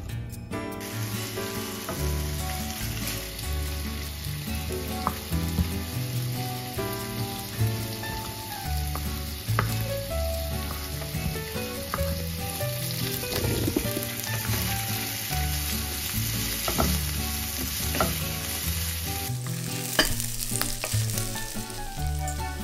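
Sliced sausages sizzling as they fry in olive oil in a frying pan, a steady hiss that starts about a second in and stops abruptly near the end, followed by a few sharp knocks.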